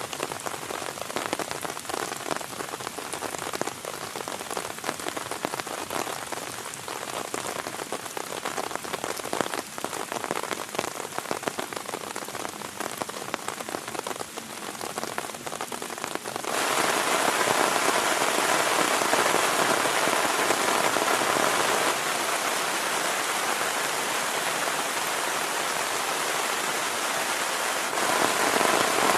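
Heavy rain falling, first as a dense patter of separate drops, then about two-thirds of the way in switching abruptly to a louder, denser, steady downpour.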